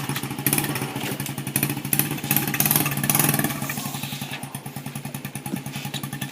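Small-displacement dirt bike's single-cylinder engine idling with a rapid, even putter, a little louder around three seconds in.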